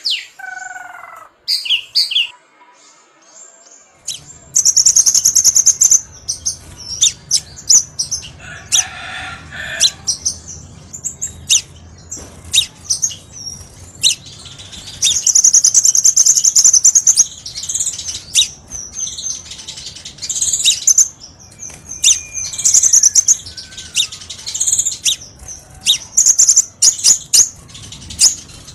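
Crimson sunbird (kolibri sepah raja) calling: rapid high-pitched chips and fast trills, repeated in quick runs. A faint low hum sits underneath from about four seconds in.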